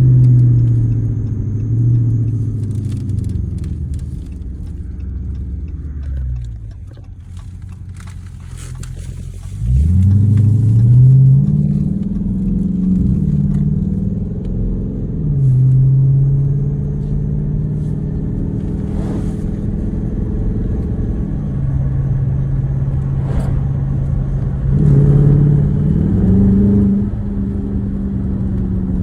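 Straight-piped exhaust of a Dodge Charger R/T's V8, with muffler and resonators deleted, under way. The note falls away and quietens around six to nine seconds in, then climbs sharply as the car accelerates hard about ten seconds in. It holds a steady cruise, then revs up again about twenty-five seconds in.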